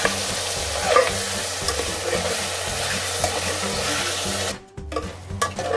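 Boneless chicken pieces sizzling in hot oil in an aluminium pot while a spatula stirs them and scrapes the pan. The sound drops out suddenly for about half a second near the end, then the stirring strokes resume.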